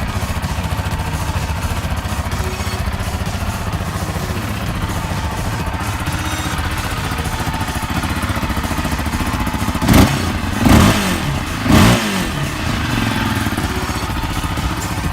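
Small off-road vehicle engine running with a steady low pulse, then three short, loud revs about a second apart late on.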